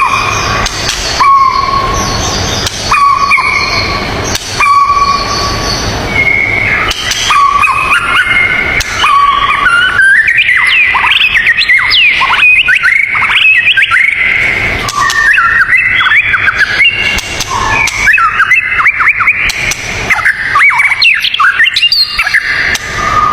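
Songbird song: short whistled notes repeated at an even pace, then from about seven seconds in a fast, varied run of rising and falling whistles.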